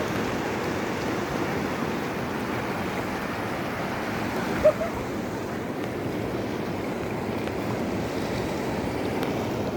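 Steady rush of sea waves and surf, with wind on the microphone. A single short, sharp sound stands out about halfway through.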